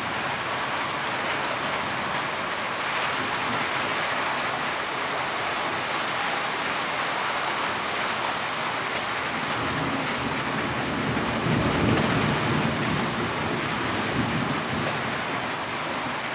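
Heavy rain falling steadily, with a low rumble of thunder swelling and fading about eleven seconds in.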